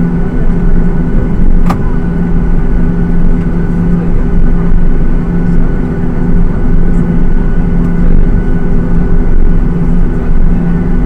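Cabin noise of a Boeing 737-800 with its CFM56 jet engines running: a loud, steady drone with a constant hum, and one short click just under two seconds in.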